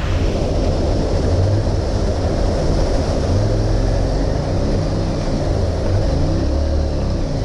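Motorcycle engine running steadily while riding, with a steady rushing noise over it.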